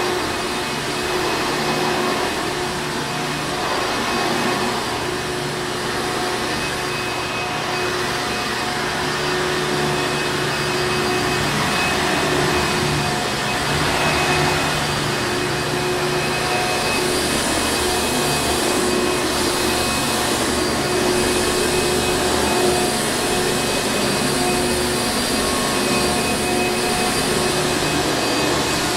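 Hoover Encore Supreme vacuum cleaner running steadily: an even rushing of air over its motor's constant hum and whine, unchanging throughout.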